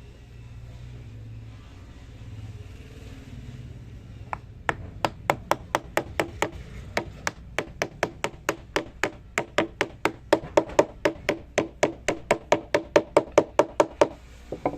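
A hammer striking in quick, even taps, about four a second, starting about five seconds in and stopping shortly before the end. Each blow has a short ring.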